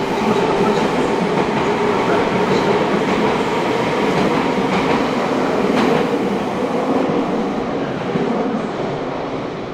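Meitetsu electric train pulling into an underground station platform: a steady rumble of wheels and motors with a few clicks over the rail joints, easing off near the end as the train slows to a stop.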